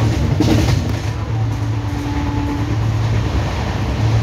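Steady low rumble of an Indian Railways LHB passenger coach running on the track, heard from on board, with a short steady hum in the middle.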